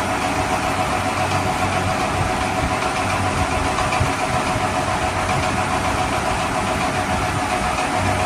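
Steady engine idling sound, an even rumble with a constant high hum over it.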